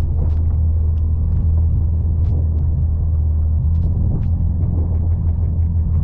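Can-Am Defender side-by-side's engine running steadily under load as it plows snow, a low, even drone with scattered light clicks and ticks over it.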